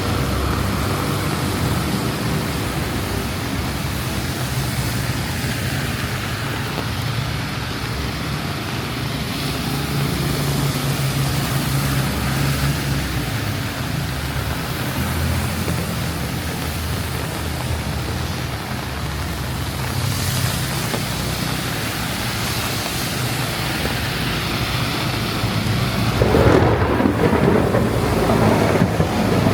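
Heavy rain falling over a steady low rumble of traffic on wet roads. Near the end the noise swells into a louder rushing wash.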